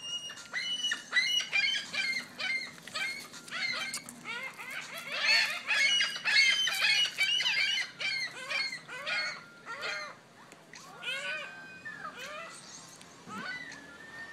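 A flock of birds calling over one another in many short, squawking calls while they compete for pieces of fish. The calling is densest about five to seven seconds in and thins to scattered calls after about ten seconds.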